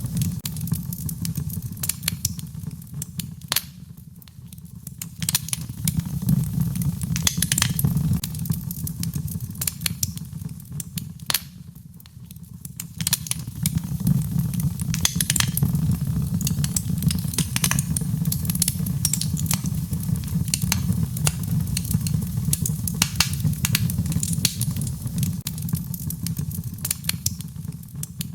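Wood fire crackling: irregular sharp pops and snaps over a steady low rumble, thinning out briefly twice.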